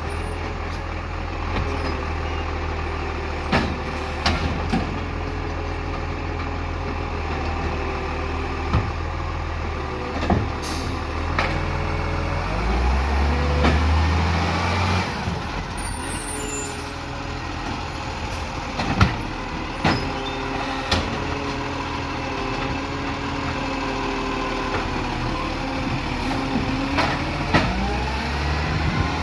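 Garbage truck engine running and working, its pitch rising and falling as it revs, with sharp knocks now and then and a short hiss of air brakes about eleven seconds in.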